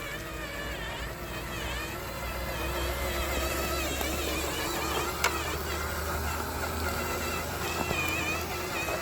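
Radio-controlled scale truck driving over gravel, its electric motor and gears whining steadily, with a sharp click about five seconds in.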